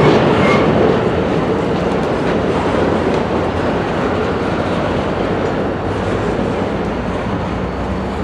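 A train rolling past on the tracks: a steady, dense rumble with wheel clatter over the rail joints, easing off slightly in loudness over the span.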